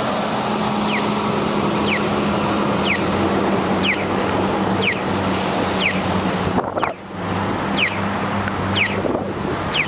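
Wind and wet road noise on the microphone of a camera riding along on a bicycle in the rain, with a steady low hum. A short, high, downward-sliding chirp repeats about once a second throughout.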